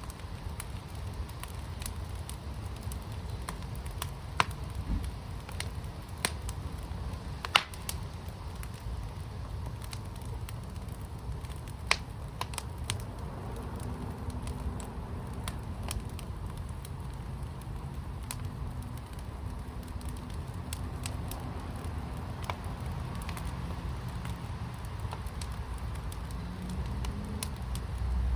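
Fire in a fire pit crackling, with irregular sharp pops scattered through it over a steady low rumble. The rumble grows louder near the end.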